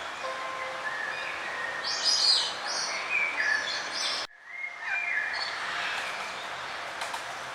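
Songbirds chirping and whistling in short high phrases over a steady background hiss. The sound cuts out abruptly a little past the middle, then the chirping resumes.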